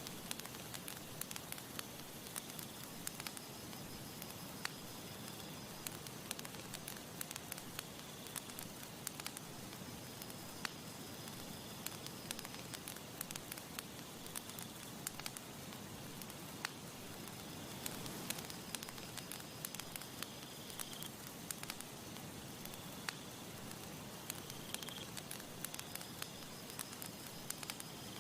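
Wood campfire crackling: a steady hiss with frequent sharp pops and snaps.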